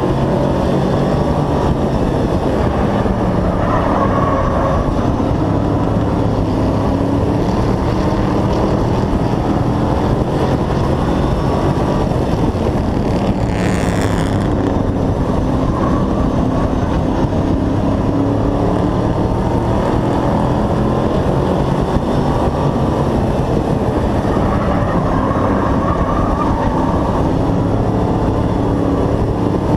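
Hobby-class race truck's engine heard onboard at racing speed, running hard, its pitch slowly rising and falling as the throttle comes on and off through the turns. About halfway through there is a brief rushing noise.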